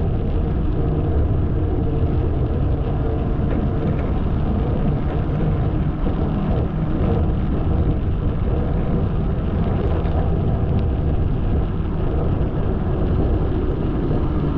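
Steady low rumble of wind on the microphone and tyre noise from a bicycle riding along a paved path.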